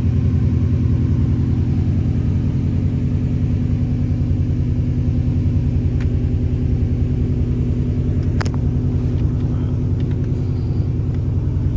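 1997 Honda Civic Type R's 1.6-litre B16B four-cylinder engine idling steadily, shortly after a cold start. A brief click about eight seconds in.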